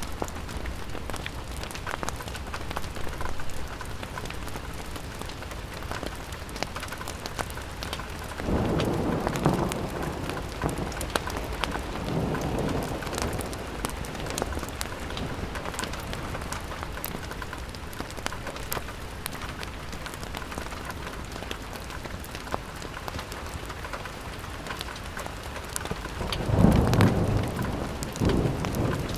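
Steady rain pattering on a window, with many small crackling ticks. Twice, about a third of the way in and again near the end, a low rumble swells up and dies away over a few seconds.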